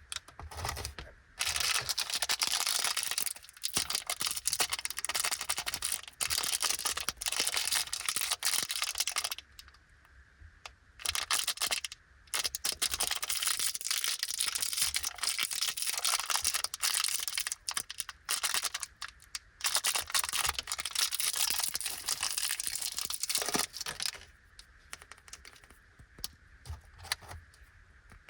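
Small plastic candy wrappers crinkling and rustling as they are handled and torn open. The crinkling comes in long stretches with brief pauses and dies down near the end.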